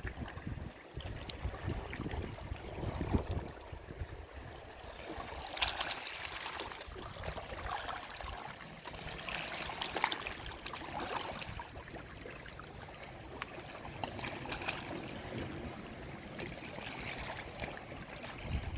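Sea waves washing up a shoreline: a steady wash of water with hissing surges every few seconds, and water trickling and gurgling between them.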